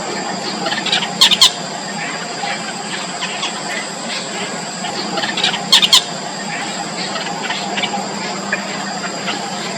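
Yellow bittern nestlings calling at the nest in fast, constant squeaky chatter. A louder, sharp double call breaks through twice, about a second in and near six seconds.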